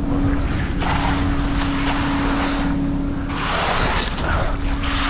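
An engine running steadily with a constant hum, with gusts of wind hissing across the microphone about three seconds in.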